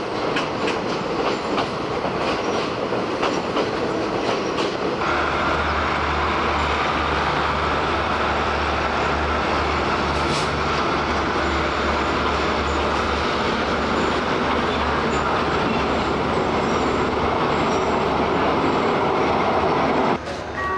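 Running noise of a State Railway of Thailand passenger train heard from inside a carriage: wheels clacking over rail joints at first. About five seconds in it changes abruptly to a steady rumble with a low drone.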